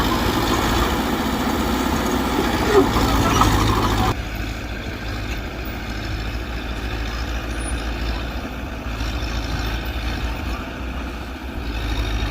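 Diesel engine of a Mitsubishi BD2G bulldozer running steadily. Its level drops suddenly about four seconds in and comes back up near the end.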